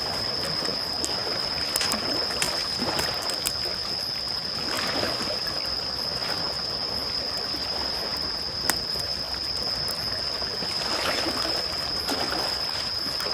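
Campfire crackling with sharp pops over gentle waves lapping, the wash of water swelling twice. A steady high-pitched tone runs underneath.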